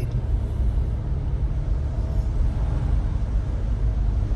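Steady low rumble of a car driving on a wet road: engine and tyre road noise.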